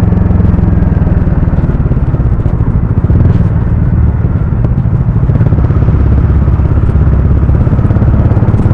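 Harley-Davidson X440's single-cylinder engine and exhaust running steadily under way.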